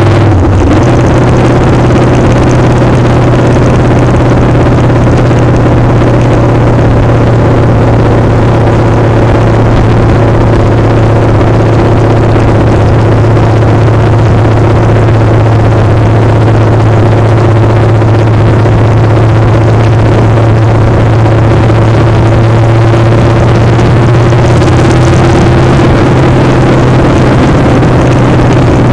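Motorcycle engine running at a steady, even pitch while riding, with wind noise on the microphone throughout.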